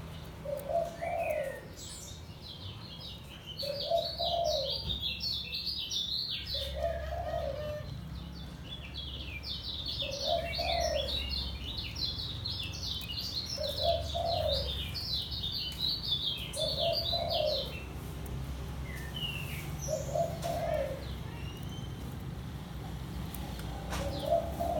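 Kecial kuning (a white-eye) singing a fast, chattering twittering song in two long bouts, the second the longer. Under it a dove coos steadily, about once every three seconds.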